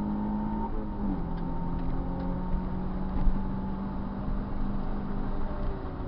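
Car engine running at fairly steady revs with a deep rumble, its pitch dropping a step about a second in and then holding steady.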